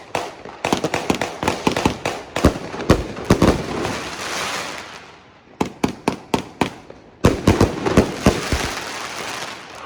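Fireworks going off in a dense barrage of sharp bangs and crackling, with a hissing wash that peaks about four seconds in. The bangs thin out around five seconds in and come thick and fast again after about seven seconds.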